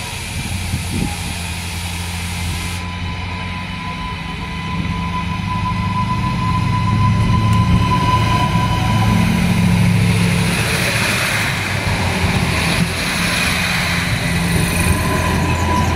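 3000/3100 class diesel railcar pulling away from the platform and passing close by. Its engine rumble grows louder from about six seconds in, with a steady high whine over it, and a hiss stops about three seconds in.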